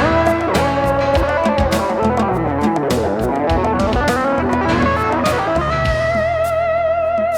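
Instrumental AOR rock passage: a lead electric guitar solo with bent notes over drums and bass, settling about six seconds in on one long note held with vibrato.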